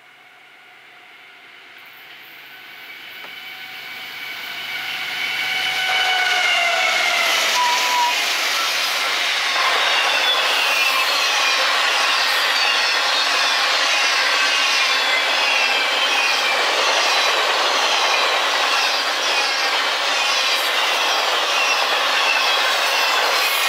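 Freight locomotive horn sounding as a fast intermodal train approaches and gets louder, its chord dropping in pitch as the lead locomotives pass about six seconds in. After that comes the loud, steady rush and clatter of container and trailer flatcars passing at speed, with repeated thin falling squeals from the wheels.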